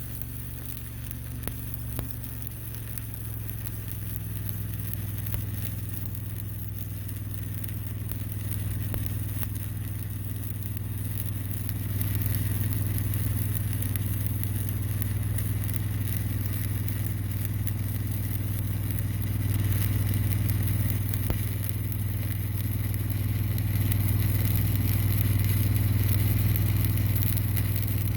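Stick (SMAW) welding arc crackling steadily while a fillet bead is run, over a steady low engine hum that grows slowly louder.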